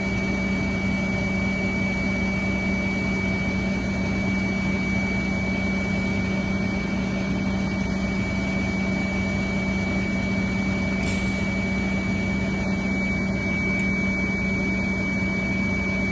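Steady drone of school bus diesel engines idling, with a steady high-pitched tone held over it.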